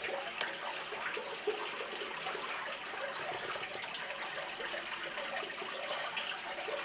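Water running and trickling inside a cave, a steady rushing splash.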